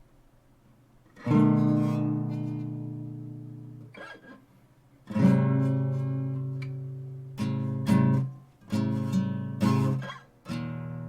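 Art & Lutherie Wild Cherry steel-string acoustic guitar strummed chord by chord. The first two chords are left to ring out and fade, then several chords follow more quickly.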